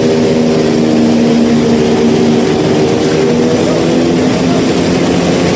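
An engine running steadily, its hum holding one pitch over a loud rushing noise.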